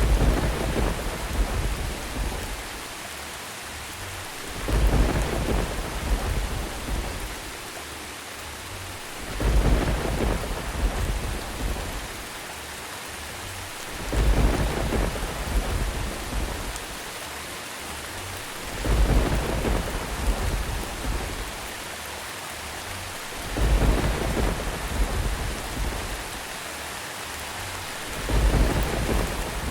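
Steady rain with rolls of thunder. A deep rumble swells and fades about every four to five seconds, seven times at very even spacing, over the constant hiss of the rain.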